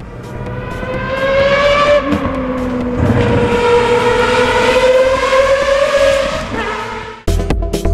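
High-revving sports or race car engine at full throttle, its pitch climbing, dropping at about two seconds in as with a gear change, then sagging and climbing again before falling off. Electronic dance music with a steady beat cuts in abruptly near the end.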